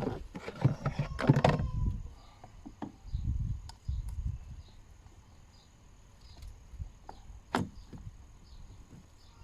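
Hand-handled filter housing parts knocking and clattering for the first couple of seconds, then scattered light clicks, with one sharper click a little past the middle, as the part is seated.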